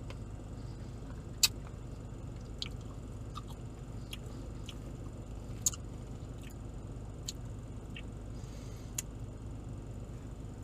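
A person eating, with short, sharp mouth clicks and smacks every second or so over a steady low hum.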